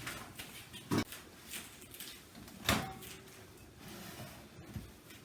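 Microwave door being opened and shut: two sharp knocks about a second and a half apart, with smaller clicks around them.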